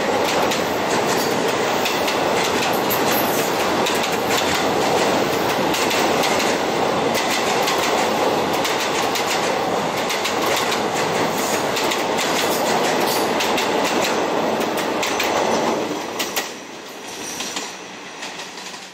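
State Railway of Thailand passenger carriages rolling past close by over a steel truss bridge: a steady rumble with wheels clacking over the rail joints. About sixteen seconds in it drops much quieter.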